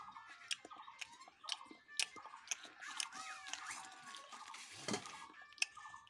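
Cooked crab being crunched and chewed, with sharp cracking clicks of shell throughout, over light background music.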